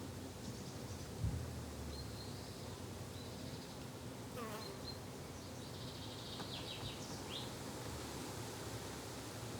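Steady buzzing of bees and flies, with short bird chirps through the middle and a single soft thump about a second in.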